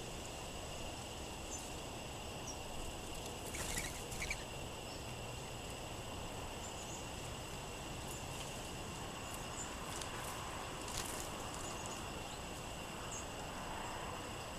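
Steady outdoor wind noise with small songbirds giving faint, short high chips now and then, and a brief louder flurry of sound about four seconds in.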